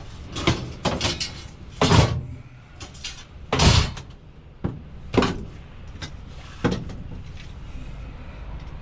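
A series of knocks and bangs from scrap being handled around a van and its doors being shut, about six in all; the loudest is a heavy bang about two seconds in and a longer one near four seconds.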